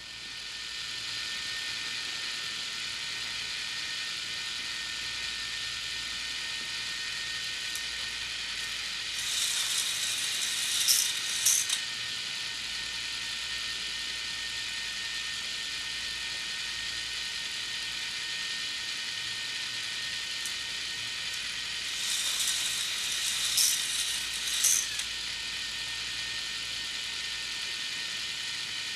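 K'nex Sonic Blizzard roller coaster model running: its motorized chain lift whirs and clicks steadily. Twice, about nine seconds in and again about twenty-two seconds in, a coaster car rattles down the plastic track for a few seconds, with sharper clacks at the end of each run.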